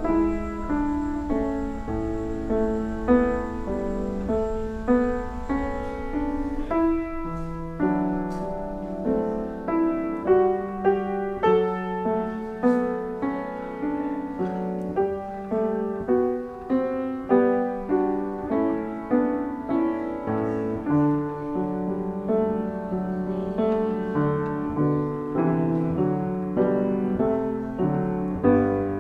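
Solo piano playing a slow hymn-like piece in chords, a new chord struck about every second.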